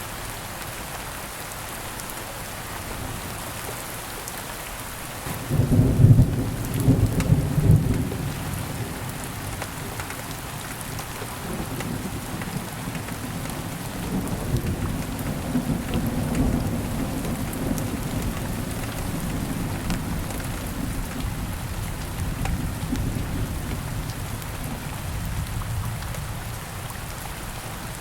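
Steady rain falling, with a clap of thunder about five seconds in, loudest for the next few seconds, then a long low rolling rumble that dies away near the end.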